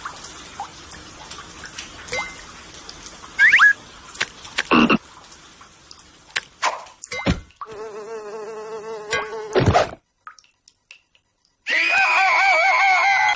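Cartoon frog croaks over an insect-buzz background, with short chirps and thumps. A long wavering croak comes about eight seconds in. After a sudden silence, a loud warbling croak comes near the end.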